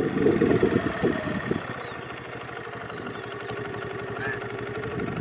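A vehicle engine idling steadily. A low rumble at the start dies down within the first second or so.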